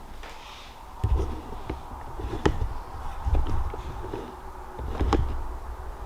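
Footsteps on an indoor floor: about four slow, heavy steps, two of them with a sharp click or creak.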